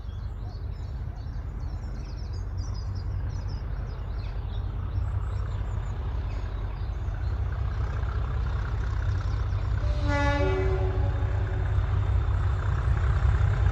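Diesel locomotive running with a steady low rumble that grows louder as it nears, sounding a short two-tone horn, low note then high, about ten seconds in.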